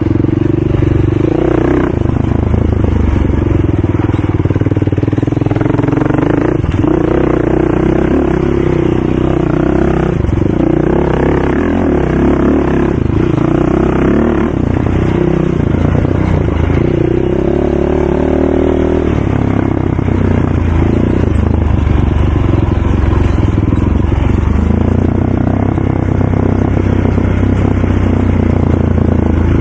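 Racing ATV engine running loudly and continuously, its pitch rising and falling as the throttle opens and closes.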